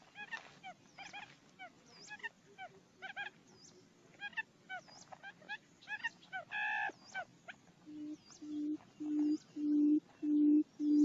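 Buttonquail lure calls: a stream of short, hooked chirping notes with one longer, louder note, then about three seconds before the end a run of low, even hoots, about two a second, growing louder.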